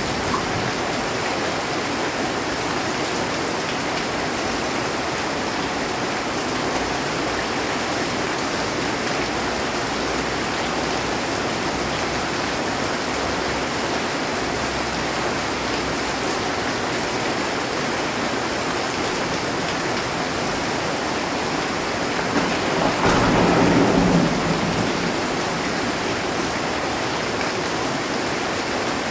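Heavy rain drumming steadily on a metal roof, with one roll of thunder rumbling up about 23 seconds in and fading within a couple of seconds.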